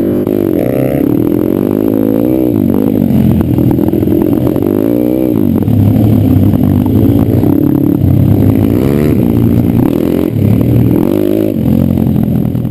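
Pit bike engine on an off-road ride, its pitch climbing and dropping over and over as the throttle is opened and closed.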